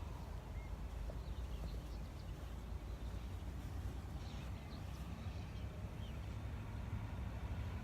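Outdoor ambience at a lake: a steady low rumble, with faint, scattered bird chirps over it.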